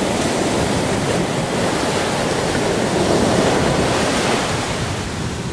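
Indian Ocean surf breaking and washing up the beach: a steady rush of water that swells about three seconds in and eases a little near the end.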